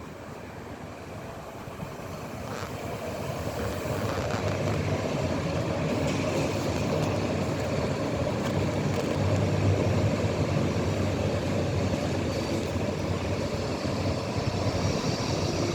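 A train running past, its low hum and rolling noise growing louder over the first few seconds and then holding steady.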